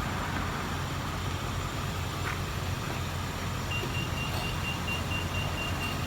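Car engine running with a steady low hum. About two-thirds of the way in, a high, rapid electronic beeping starts and keeps going.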